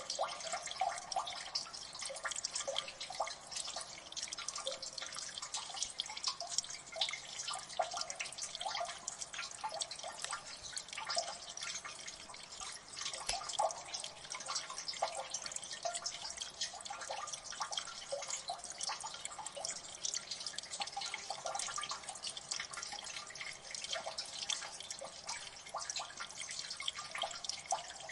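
Water drips falling in a gully, many quick, irregular drops plinking over a steady trickling hiss.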